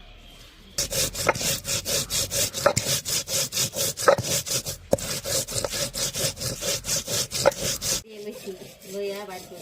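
Cumin being ground into a paste by hand on a flat grinding stone (shil-nora): fast back-and-forth rubbing strokes, about four a second, with a brief break about five seconds in, stopping about eight seconds in.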